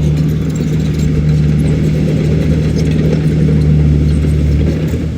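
Diesel engine of a heavy earthmoving machine running steadily under load, with light metallic clatter over it.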